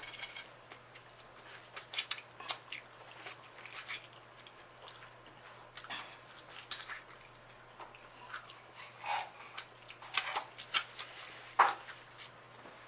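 Close-up eating sounds from a saucy seafood boil eaten by hand: scattered sharp clicks, crackles and wet smacks of shells being handled and food being chewed, a handful of louder snaps near the end.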